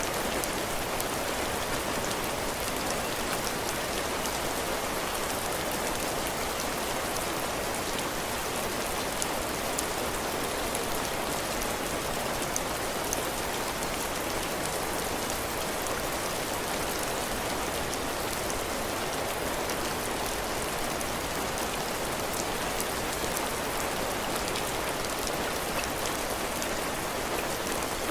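Heavy rain falling steadily, drops pattering on a cabin porch roof and the ground, with the odd single drop ticking out above the even hiss.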